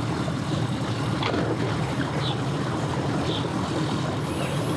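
Motorboat engine running with a steady low drone, along with a few short high chirps.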